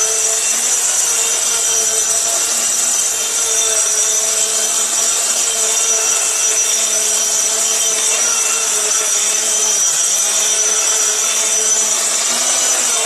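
High-speed electric grain grinder with a stainless steel body, running loaded with wheat and milling it to flour. A loud, steady, high-pitched motor whine, with a brief dip in pitch near the end.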